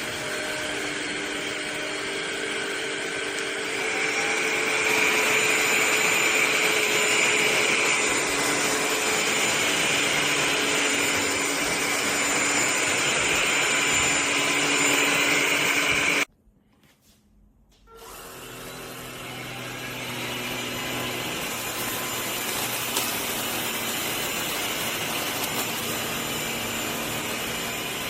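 MBYULO cordless stick vacuum motor running with a steady whir. It cuts out abruptly about sixteen seconds in, then builds back up over a few seconds.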